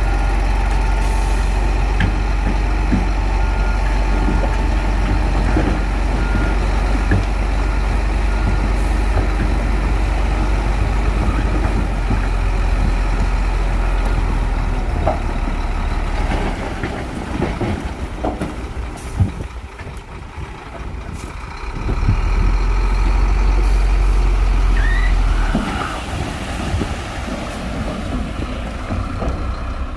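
Heavy diesel earthmoving machinery running with a deep, steady rumble, while a reversing alarm beeps repeatedly for the first several seconds. The engine eases off about halfway through, then comes back up for a few seconds before settling lower near the end.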